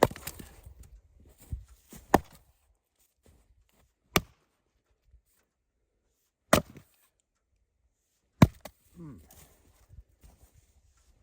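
Gransfors Bruk splitting maul striking a firewood round five times, roughly every two seconds, each blow a sharp single impact.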